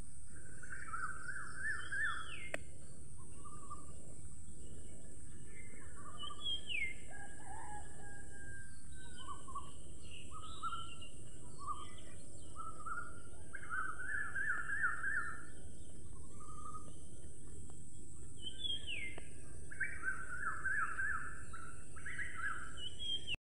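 Birds singing: repeated short trills and quick downward-sweeping whistles from several birds, over a steady high-pitched hiss.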